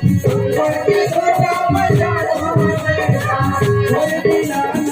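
Indian folk song: a melodic vocal line over a steady drum rhythm and a rattling shaker.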